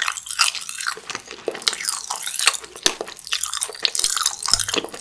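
Close-miked chewing of a carrot-shaped gummy jelly: a dense, irregular run of wet clicks and crackles.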